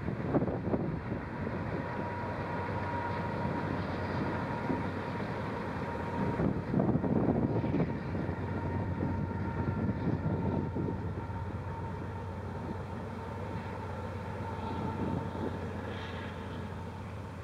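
Long freight train of tank cars rolling past in the distance: a steady rumble of wheels on rails that eases off toward the end, with gusts of wind buffeting the microphone.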